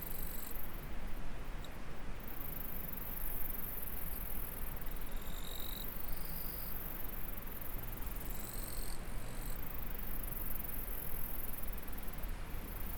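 Insects chirring in a steady high-pitched drone over the even rush of a stream. Short high chirps come a few times, about five, six and eight and a half seconds in.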